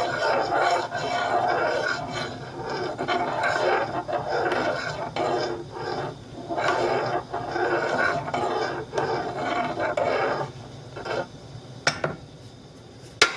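A spoon scraping round a pot, stirring rice mix into boiling liquid in repeated strokes, which die down after about ten seconds, with a couple of sharp knocks near the end.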